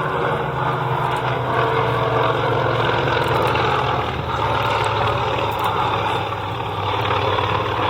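Vintage piston-engined propeller aircraft flying a display, their engines giving a loud, steady drone.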